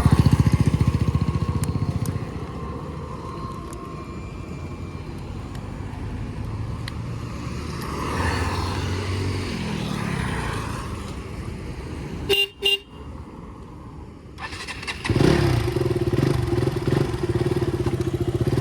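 Motorcycle engine running as the ride gets under way, loud at first, then quieter, then steady and louder again for the last few seconds. Two quick horn toots sound about twelve seconds in.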